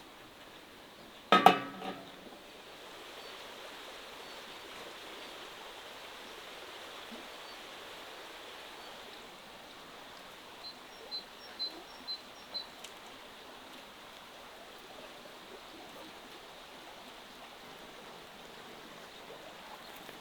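Metal cookware clanks once with a short ring, then a steady hiss runs underneath. About ten seconds in, a few light clinks of metal on metal.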